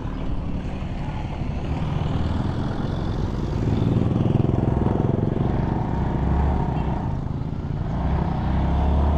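Motorcycle engine running while riding, with a steady low rumble of engine and road noise that grows louder a few seconds in.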